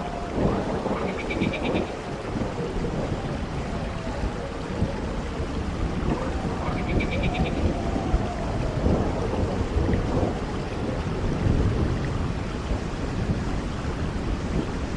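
Stormy horror ambience: steady rain-like noise with low thunder rumbles swelling and fading, and a faint wavering whine. Twice a brief, high, rapidly pulsed chirp cuts through.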